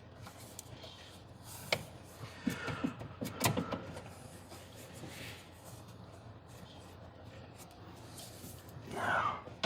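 Scattered light clicks and knocks of hand tools and bolts being handled, a few sharp ones in the first few seconds, then mostly quiet.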